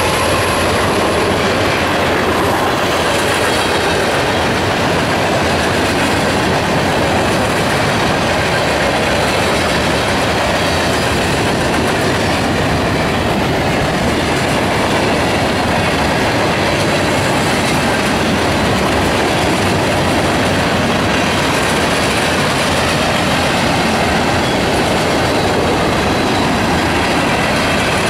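Freight train of boxcars and covered hoppers rolling past: a steady rumble and clatter of steel wheels on the rails. A thin high whine dies away in the first couple of seconds.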